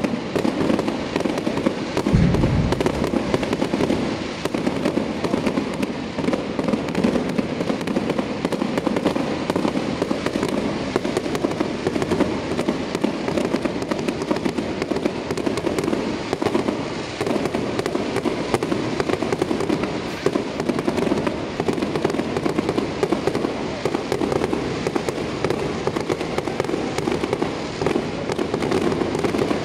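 Fireworks display going off overhead: a dense, continuous barrage of bangs and crackling, with one heavy low boom about two seconds in.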